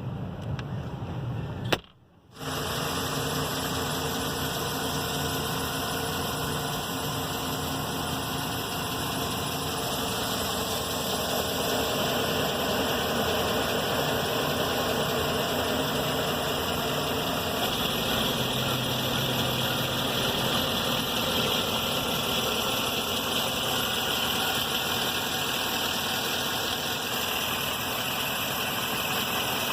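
2013 GMC Sierra 1500's V8 engine idling steadily. A sharp click about two seconds in is followed by a brief gap in the sound.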